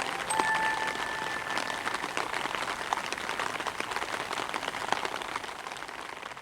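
Rain falling, a dense patter of many small drops, growing quieter near the end.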